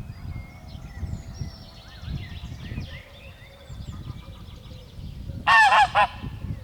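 Barnacle goose giving a quick run of loud, short honks about five and a half seconds in, over faint songbird chirps and a low rumble.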